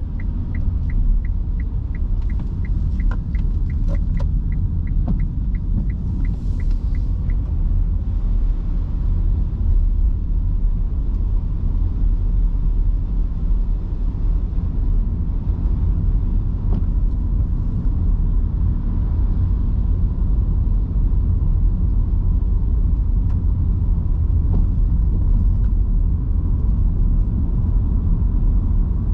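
Steady low rumble of road and tyre noise heard from inside an electric car driving on wet roads in heavy rain. For the first seven seconds or so a turn-signal indicator ticks evenly, about three ticks a second, then stops.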